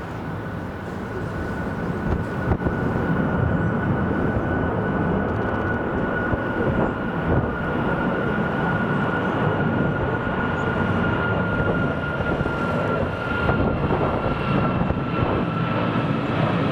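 Boeing 737 MAX's CFM LEAP-1B jet engines at high thrust as the airliner goes around, a loud rumble with a steady fan whine that sinks slowly in pitch. Wind buffets the microphone.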